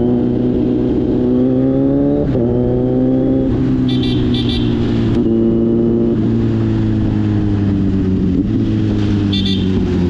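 Kawasaki Z900's 948 cc inline-four engine under way, rising in pitch as it accelerates, with an upshift about two seconds in. It then winds down steadily as the bike slows, with a downshift near the end.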